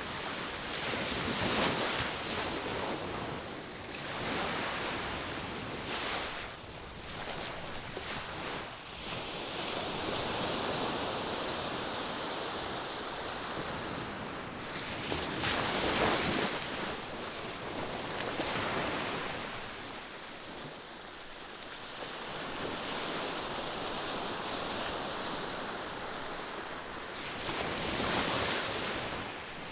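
Ocean surf breaking on a beach: a continuous wash of waves that swells and ebbs, loudest about halfway through and again near the end.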